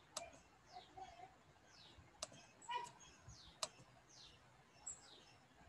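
Near silence with faint bird chirps in the background, each a quick downward sweep, repeated every second or so. A few sharp clicks.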